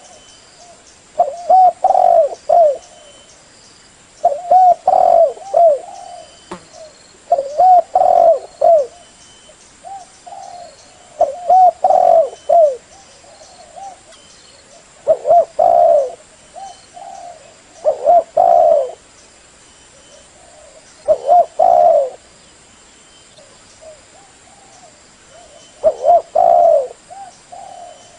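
Spotted dove cooing: a repeated phrase of several soft, low, pitched notes, about every three seconds. This is the kind of call recording used to lure the bird for hunting or trapping.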